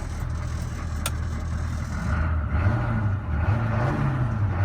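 GM 6.2-litre V8 diesel of a 1984 Chevrolet K10 pickup running, with a single sharp click about a second in. From about halfway through, the engine note rises and falls a few times as the throttle is blipped.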